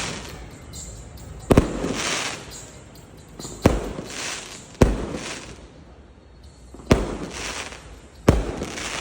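Aerial fireworks shells bursting: five sharp bangs, one every one to two seconds, each followed by a hiss that fades over about a second.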